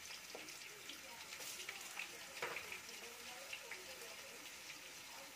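Potato sticks sizzling faintly in hot oil in a pan, with scattered small pops, as a fresh batch of raw fries is dropped in for the light first fry of a double fry.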